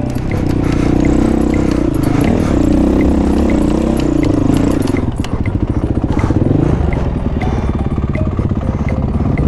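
Honda CRF450 dirt bike's single-cylinder four-stroke engine running on and off the throttle, rising and falling in pitch, with a dip to lower revs about five seconds in, while riding a rutted trail.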